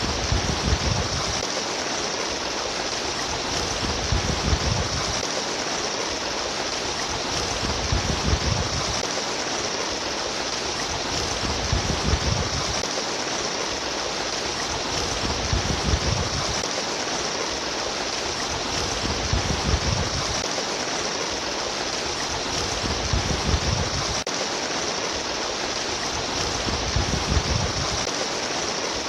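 Water gurgling and splashing steadily like a running stream, with a low rumble that swells and fades about every four seconds.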